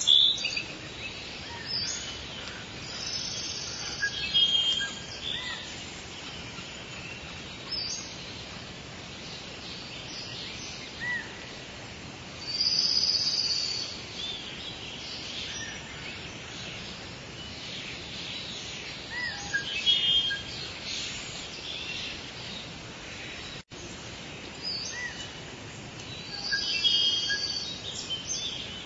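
Steady light rain hiss with songbirds chirping and calling on and off over it. The sound cuts out for an instant about two-thirds of the way through.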